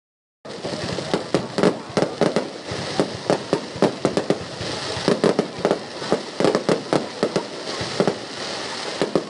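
Aerial fireworks going off: many sharp, irregular bangs, several a second, over a steady hiss. The sound cuts in abruptly about half a second in.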